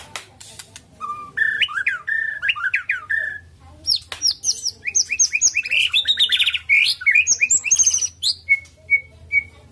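White-rumped shama (murai batu) singing a varied song: a lower whistled phrase about a second in, then a fast run of high, rapidly changing notes from about four seconds, ending in three short whistled notes. A few faint clicks come in the first second.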